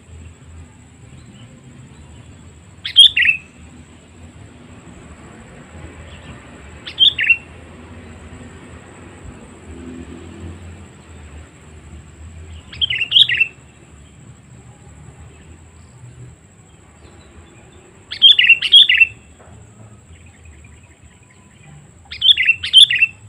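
Sooty-headed bulbul (kutilang) calling: five short call phrases a few seconds apart, the last two longer and made of several notes.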